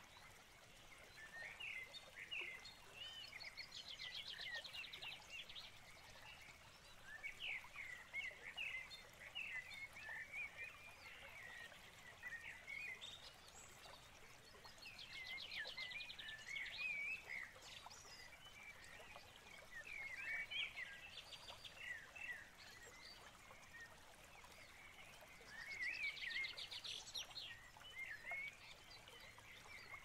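Small birds singing and chirping, with short warbled notes throughout and a rapid buzzy trill that comes three times, about eleven seconds apart.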